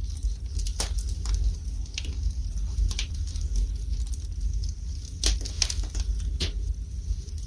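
Wood fire burning in a fireplace: irregular sharp crackles and pops from the burning logs over a low, steady rumble.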